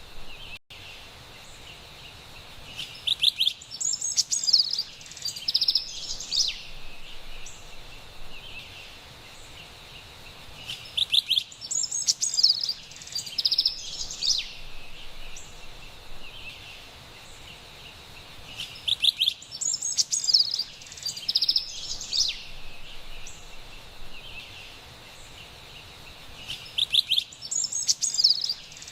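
Carolina wren songs in bouts about every eight seconds, four times, each a quick run of bright repeated notes, over a steady background hiss of forest ambience.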